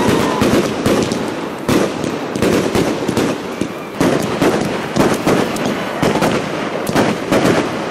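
Fireworks crackling: a dense, irregular run of rapid sharp pops and snaps.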